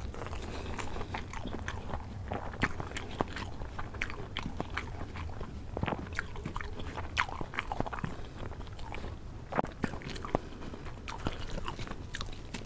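A person chewing a mouthful of rice and chicken curry, with many short, irregular wet clicks and smacks of the mouth.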